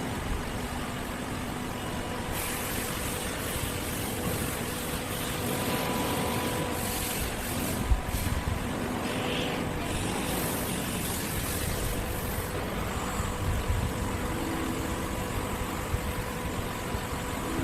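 Steady machine-shop machinery noise with a faint hum. A hiss runs from about two seconds in to about twelve seconds in, and there is a single sharp click about eight seconds in.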